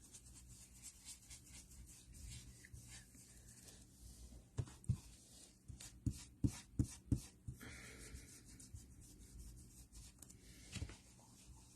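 Ink blending brush rubbing and swirling over a stencil on paper, a faint scratchy brushing, with a run of light knocks about halfway through.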